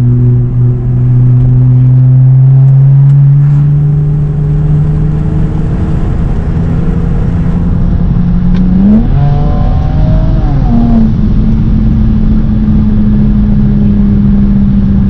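BMW E92 335i's upgraded twin-turbo N54 inline-six pulling under load, its engine and exhaust note climbing slowly in pitch, then a quick rise and fall in revs about nine seconds in before it holds a steady, higher note. Heard from the cabin with a window cracked.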